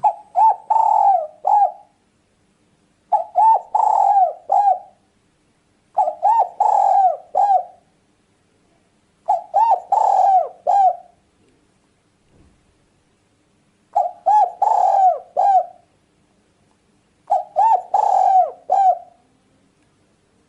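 Spotted dove (tekukur) cooing: six phrases, each a short run of coos with a longer note in the middle, repeated every three to four seconds.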